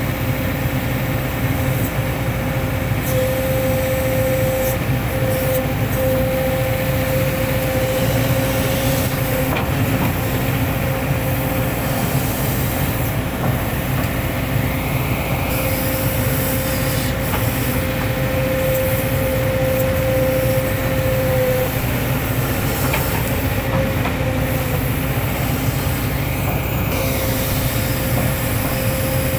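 Hitachi hydraulic excavator working, its diesel engine running steadily with a constant hydraulic whine over it.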